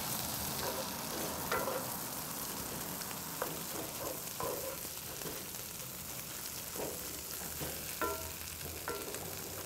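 Fried rice sizzling in butter in a 12-inch cast iron skillet over high heat. A wooden spatula stirs through it, making several short scrapes against the pan.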